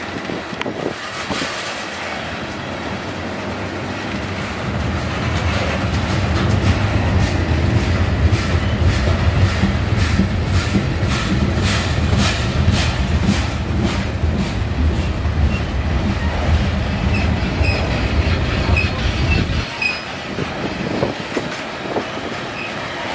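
A train passing on the rails, with a deep rumble and the wheels clicking over rail joints in an even rhythm. A few faint, brief wheel squeals come near the end, and the rumble drops away suddenly.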